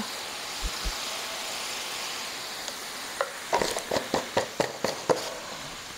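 Minced meat (keema) with tomato paste frying in oil on a flat tawa griddle, a steady sizzle. About halfway through comes a quick run of sharp clicks and pops that lasts a couple of seconds.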